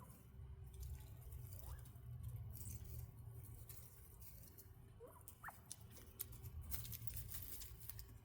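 Northern bobwhite quail giving a few soft, short peeps that rise in pitch, with light pattering and rustling clicks from the birds moving and pecking on the aviary floor, busiest near the end.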